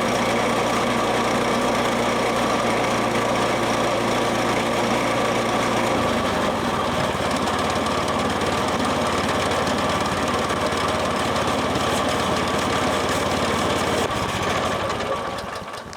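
Portable sawmill's pull-start gasoline engine running steadily, freshly started for its first run since last fall; about six seconds in its speed steps up, and near the end it is shut off and dies away.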